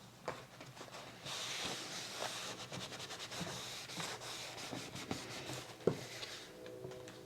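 Paper being rubbed and smoothed down by hand, a scratchy rubbing in quick short strokes, with one sharp tap toward the end.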